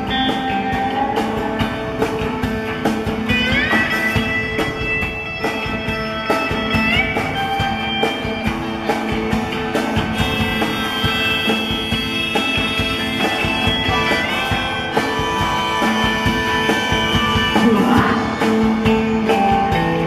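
Guitar-led rock music with a drum beat, an instrumental passage without singing; several guitar notes slide up in pitch, around four and seven seconds in.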